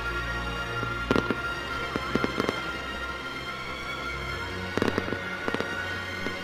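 Fireworks bursting overhead in a run of sharp bangs and pops, with the densest cluster about five seconds in. Music plays steadily underneath.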